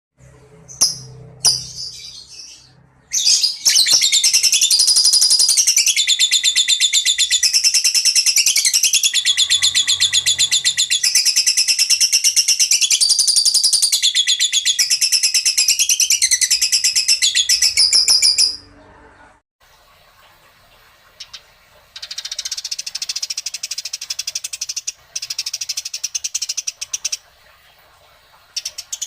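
Songbird song: a long, fast, high-pitched chattering run of rapid notes that stops suddenly after about fifteen seconds, then, after a short pause, shorter bursts of fast chattering.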